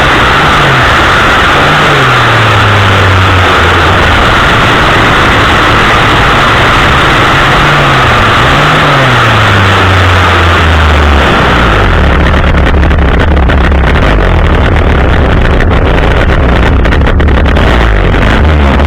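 Gas-powered pole chainsaw engine running very loud and close, its revs rising and dropping twice. About two-thirds of the way through, the high whine drops away and a lower, steadier engine note carries on.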